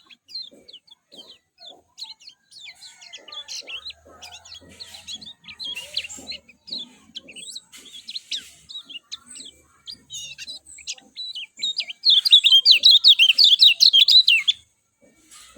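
Kecial kuning white-eye singing: scattered high chirps and twitters, then about twelve seconds in a loud, rapid run of trilled notes lasting about two and a half seconds.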